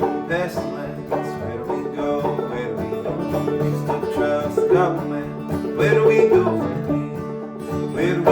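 Acoustic band playing a country-bluegrass song, led by picked banjo over guitar.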